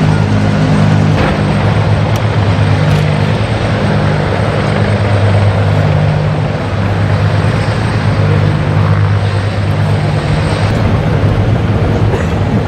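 Military helicopters in flight: a loud, steady low drone with a rushing noise over it.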